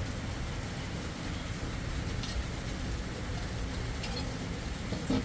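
Steady rain with a low rumble underneath and a few faint ticks.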